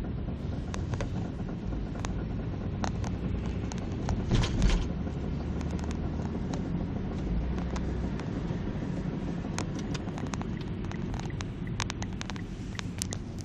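Mitsubishi Lancer X on the move: a steady low rumble with scattered sharp knocks and a louder burst about four and a half seconds in. The knocking comes from a worn rear wheel hub bearing.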